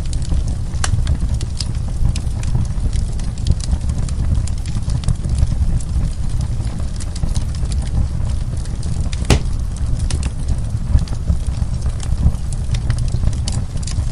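Wood fire burning in a fireplace: a steady low rumble of flames with frequent, irregular sharp pops and crackles from the burning wood, one louder pop a little past nine seconds in.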